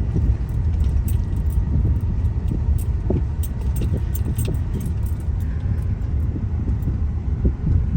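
Road noise inside a moving car: a steady low rumble from tyres and engine, with scattered small clicks and rattles.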